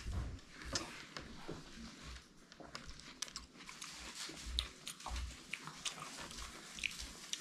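People biting and chewing chunks of watermelon: faint, irregular crunches and mouth clicks.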